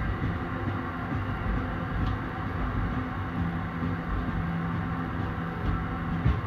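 Train running: a steady rumble with low hums. A lower steady hum comes in about halfway through, and there is a short knock near the end.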